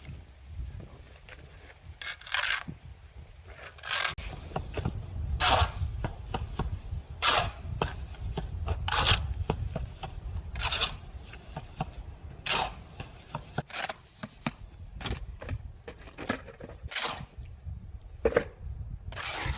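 Repeated scraping strokes, roughly one every one and a half to two seconds, over a steady low rumble.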